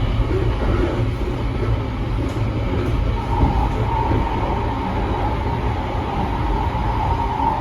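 JR Kyushu 883 series electric train running at speed, heard on board: a steady low rumble of wheels on track. About three seconds in, a steady tone near the top of the rumble comes in and holds.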